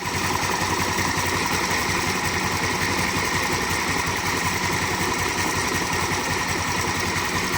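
TVS Wego scooter's small single-cylinder engine running steadily at idle, with a fast, even pulsing beat.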